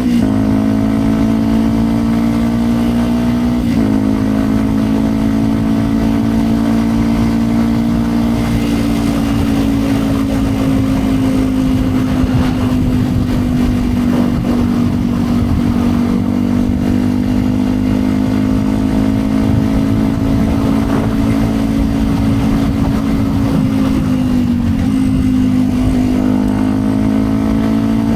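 2010 Yamaha WR 125 X's single-cylinder four-stroke engine running through a Yoshimura exhaust under way. Revs climb with a sudden step about four seconds in, hold steady for a long stretch, drop near the end and then rise again.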